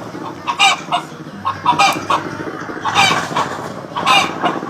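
Chickens clucking, a quick string of short, sharp calls.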